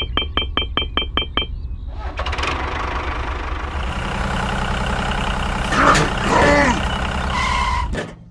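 Diesel tractor engine cranking with a rapid run of clicks, about five a second, then catching and running at a steady idle, with a sliding tone about six seconds in. The engine sound cuts off abruptly near the end.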